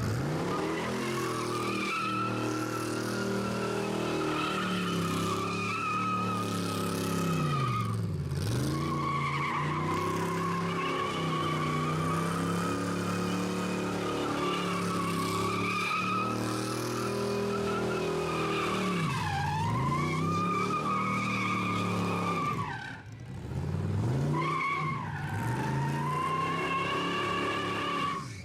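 Rat rod doing a burnout: its engine is held at high revs while the spinning rear tyres squeal continuously. The revs drop and climb again three times, about a third of the way in, again past two-thirds, and near the end.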